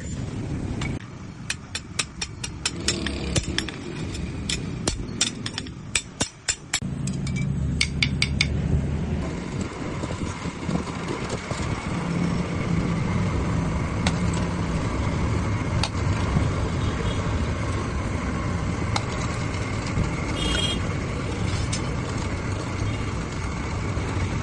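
Hand hammer striking steel in a quick run of blows, about three or four a second, for the first several seconds. After that a steady machine hum takes over.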